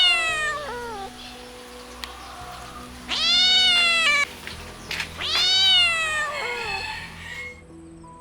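Kitten meowing: three long meows, each rising then falling in pitch, one at the very start and the others about three and five seconds in, over soft background music.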